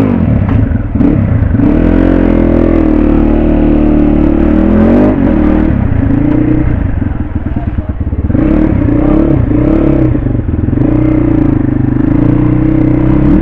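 Suzuki RM 250 motocross bike's two-stroke single-cylinder engine running and being revved, its pitch rising and falling several times.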